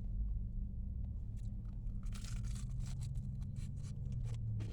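Crispy fried chicken wings, crunching and crackling as they are bitten and chewed, over a steady low hum. A brief rustling noise comes about two seconds in, and the crackles come more often in the second half.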